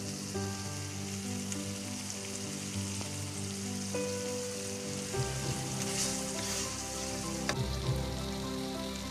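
Curry paste and sausage slices sizzling in hot oil in a wok while being stirred with a wooden spatula, under background music with held notes. One sharp knock about three-quarters of the way through.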